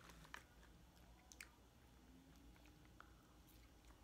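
Near silence with a person quietly chewing popcorn, mouth closed: a few faint crunches.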